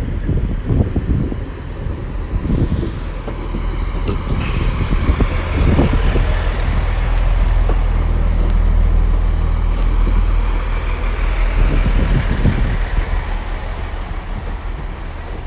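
Chiltern Railways Class 165 diesel multiple unit 165017 running at the station platform, a steady low diesel rumble that builds to its loudest about halfway through and then eases off.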